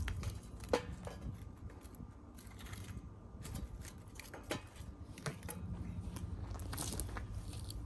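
Pieces of wood being handled and set in place, with scattered light knocks and scrapes.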